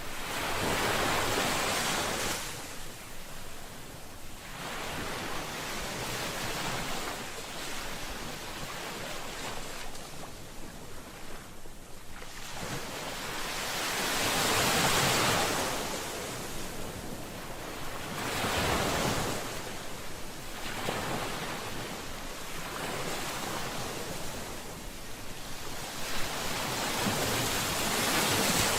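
Ocean waves breaking and washing onto a shore, a steady hiss of surf that swells and ebbs with each wave every few seconds.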